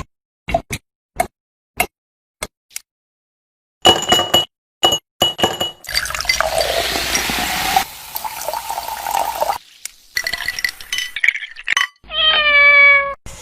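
Kitchen sounds of glassware and liquid: a series of sharp taps, then glass clinking with a brief ring, then liquid pouring for about two seconds, followed by more clinks. A short held pitched tone sounds near the end.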